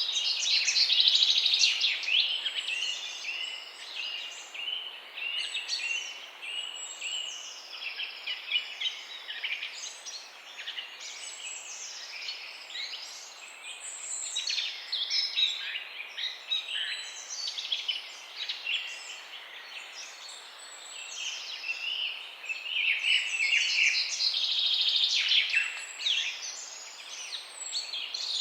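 Several songbirds chirping and trilling at once in a dense, continuous chorus of high, quick calls, louder near the start and again about three-quarters of the way through, over a faint steady hiss.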